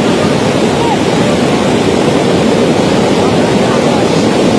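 The Swat River in flood, its water rushing in a loud, steady, unbroken noise.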